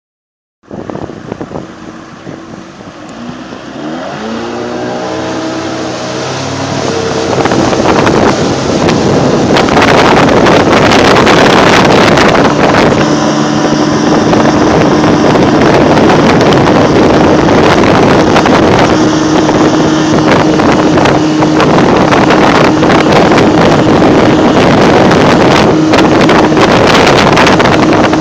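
Motorboat engine speeding up, its pitch climbing over a few seconds, then running steadily at speed under a loud, steady rushing noise.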